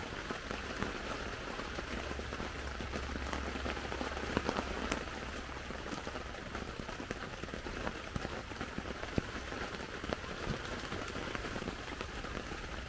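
Steady rain falling on a tent, with many individual drops ticking sharply over a continuous patter.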